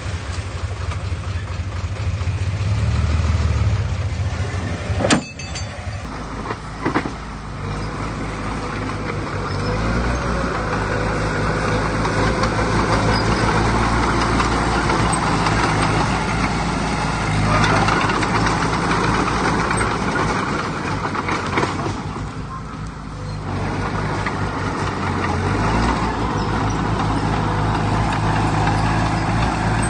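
Diesel engine of heavy earthmoving machinery running and changing load as it works, with a sharp knock about five seconds in.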